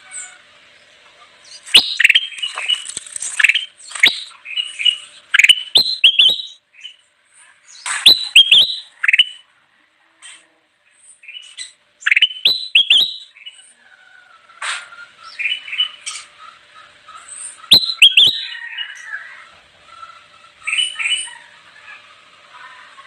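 Kutilang emas bulbul singing in bursts of quick, sharp chirping notes, with a brief pause about ten seconds in.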